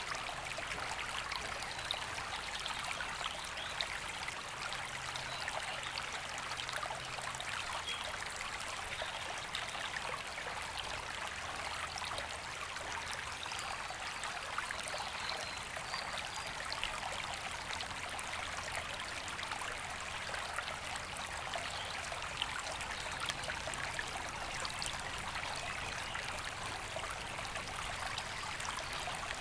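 River water running over stones, a steady, even rush with a trickling, babbling texture.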